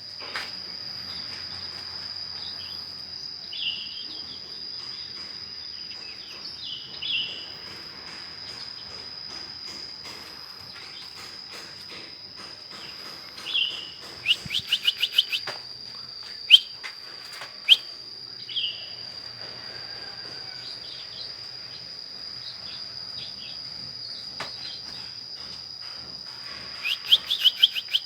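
Bird, the kinoi of the title, calling: short downward chirps every few seconds, a few sharp single notes, and two quick rattling runs of notes, one about halfway and one near the end. A steady high insect drone runs underneath.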